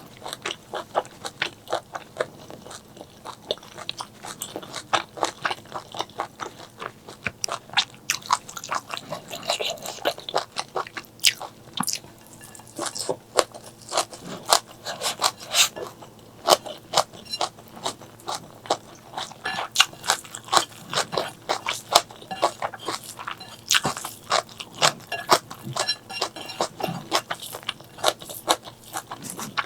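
Close-miked eating sounds: steady chewing with crunching and wet crackling bites, many small clicks a second.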